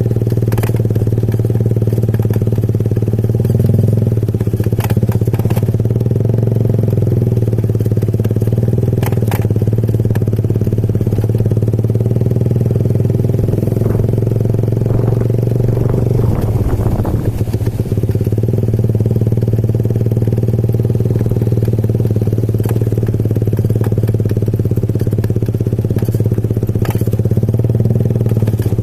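Motorcycle engine running at a steady speed while riding, with occasional faint clicks.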